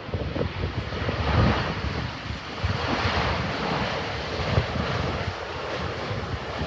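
Jet airliner engines sounding as a steady wide noise, with gusts of wind buffeting the microphone.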